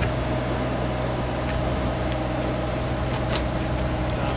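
An engine running steadily: a constant low hum with a steady tone above it, and a few faint ticks.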